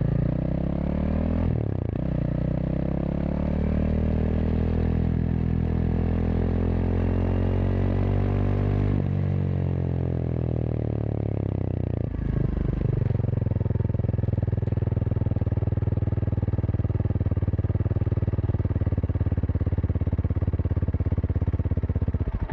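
Kawasaki KLX230SM's single-cylinder engine running through a K-Factory FRC slip-on silencer while riding: the pitch dips about two seconds in, climbs steadily as the bike accelerates, eases off about nine seconds in, shifts again near twelve seconds, then holds a steady cruise.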